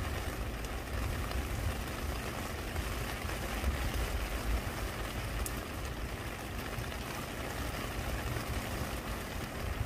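Steady rain falling on a wet stone and plant leaves, over a low uneven rumble.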